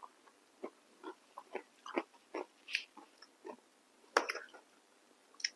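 Close-miked chewing of momos and noodles: a string of short mouth clicks and smacks a few tenths of a second apart, with a louder click about four seconds in.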